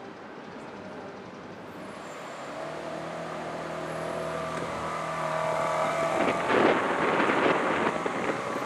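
Ferrari 430 Scuderia's V8 engine driving slowly past, growing steadily louder, then rising to a loud rev about two-thirds of the way through before easing off.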